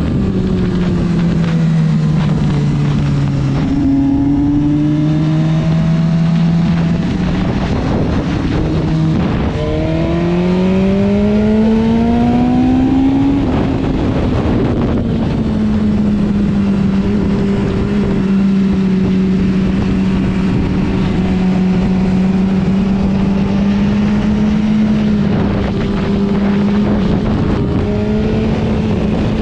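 Motorcycle engine heard onboard over heavy wind rush. The revs fall for the first few seconds, climb steadily from about ten seconds in, drop at a gear change, then hold steady for the rest.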